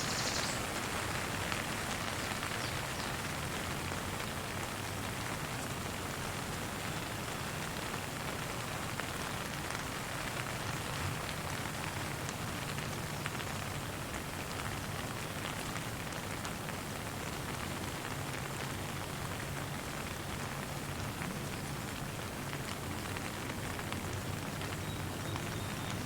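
Steady gentle rain falling, a dense even patter of many drops landing.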